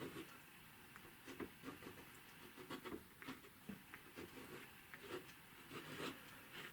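A card scraping wet watercolour paint out of the paper in a series of short, faint scrapes at irregular intervals.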